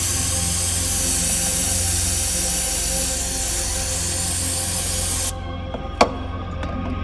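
Aerosol can of brake cleaner spraying in one continuous hiss that cuts off about five seconds in, followed by a single sharp click. Background music plays throughout.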